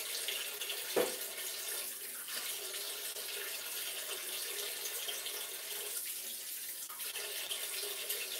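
Stir-fried cabbage sizzling steadily in a stainless-steel pot on an induction hob, with one brief louder pop about a second in.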